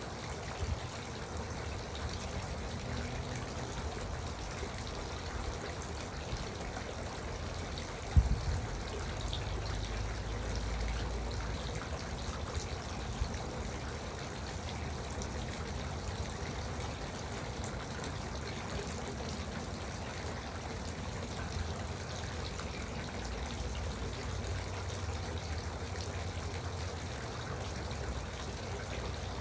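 Garden water fountain trickling steadily, with a low rumble coming and going underneath. A single low thump sounds about eight seconds in.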